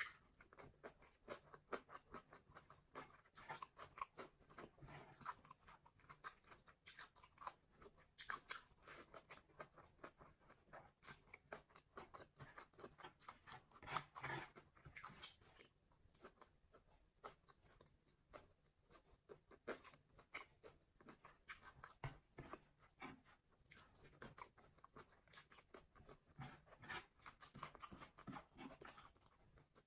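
Soft, close-miked chewing of fried rice eaten by hand, with quick irregular wet mouth clicks and smacks.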